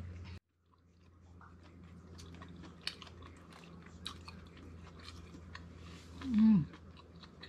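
A person chewing a mouthful of baked green-lipped mussel with cheese: faint soft wet mouth clicks over a steady low hum, with a short hummed "mm" falling in pitch a little after six seconds in. The sound cuts out briefly just under a second in.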